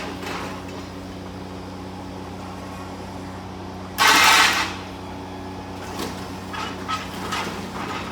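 Demolition machinery running with a steady engine hum, a sudden loud burst of noise about half a second long about four seconds in, and a few lighter knocks near the end.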